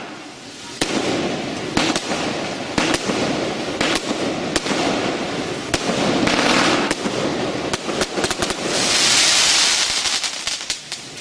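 Fireworks going off in a pyrotechnic show: a steady crackle broken by many sharp cracks and pops. A loud hiss swells up about nine seconds in and fades.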